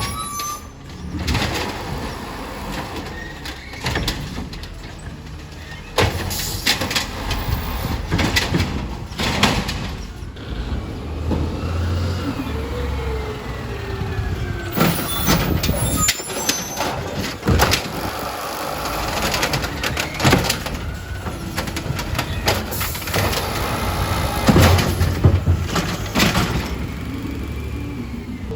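Garbage truck at work: its diesel engine runs under a string of clanks and bangs, and a falling mechanical whine comes about halfway through.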